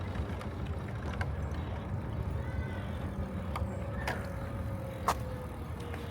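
Riding a bicycle: wind rumbles on the microphone under a steady rolling noise, with a few sharp clicks and rattles from the bike scattered through.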